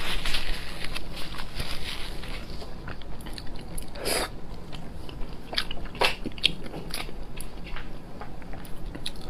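Close-miked chewing and biting of spicy meat, with irregular wet clicks and crackles and a couple of louder bites about four and six seconds in.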